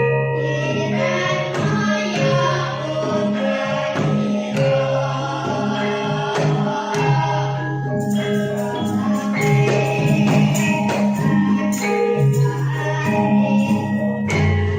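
Javanese traditional music: struck metal mallet instruments and percussion over steady low tones, with a sung melody.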